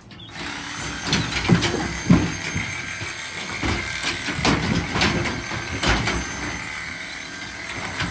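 Metal clanks and knocks from a cattle crush as a steer shifts about inside it, a few irregular bangs over a steady high hum.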